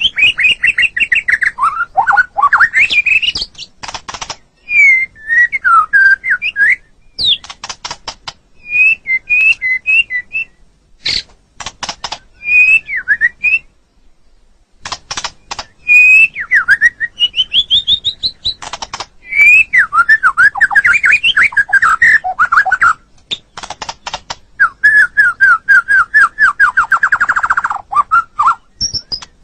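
White-rumped shama (murai batu) singing: varied whistled phrases broken by runs of sharp clicking notes. The song pauses briefly about halfway through, and a fast trill comes near the end.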